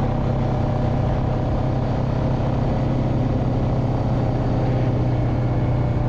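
A vehicle engine running steadily while driving slowly, a constant low drone with no change in speed.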